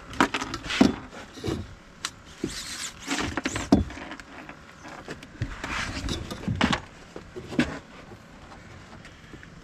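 Irregular knocks, thumps and scrapes of a large flathead catfish being handled and measured on a boat, busy for most of the time and dying down near the end.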